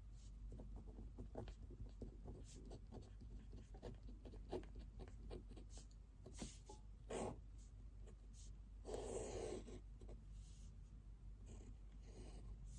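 Pen writing on paper, faint: a steady run of short scratching strokes. About nine seconds in comes a brief, louder rustle lasting under a second.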